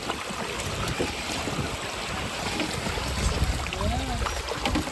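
Steady rushing of flowing water with wind buffeting the microphone; a faint voice comes in near the end.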